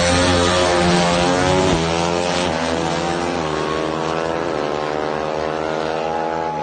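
Drag-racing engine at full throttle, accelerating through the gears: its pitch climbs, then drops back at each of several shifts.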